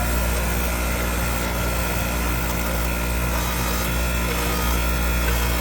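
Electric power tool with an abrasive wheel running at a steady speed, a constant motor hum under a rubbing grind as it scuffs a crosshatch into the worn face of an RC truck's slipper clutch disc.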